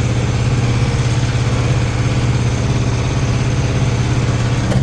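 Case 844 XL Plus tractor's diesel engine running steadily under way in fourth gear, with an even, rapid beat and a strong low hum; it sounds healthy.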